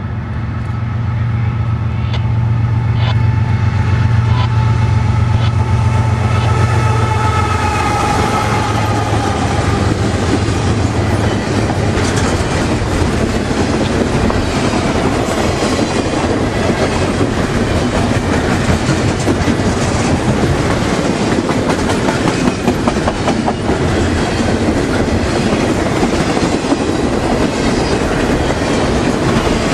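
Diesel freight train passing close by: the locomotive engines drone for the first ten seconds or so, then the freight cars' wheels clatter steadily over the rail joints.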